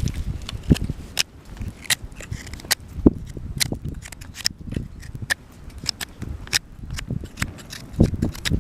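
Small wood campfire crackling: irregular sharp pops and snaps throughout, with a few low thuds underneath, the strongest about three seconds in and near the end.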